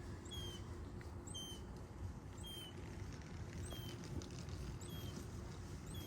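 Short, high, thin squeaking calls repeated about once a second, six in all, from a young animal that the watcher takes to be hungry and begging to be fed.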